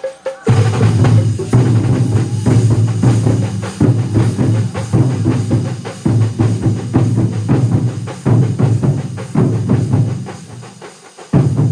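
A large massed drum ensemble playing together: dense, fast drumming with deep bass-drum beats. It fades about ten seconds in, stops for a moment near the end and starts again at once.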